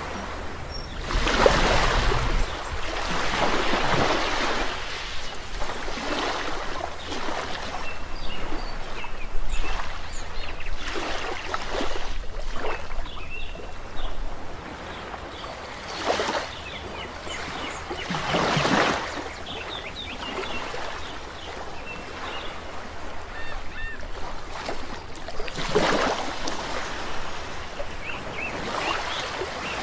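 Sea waves breaking and washing onto a shore, with swells every few seconds, while small birds chirp faintly between them.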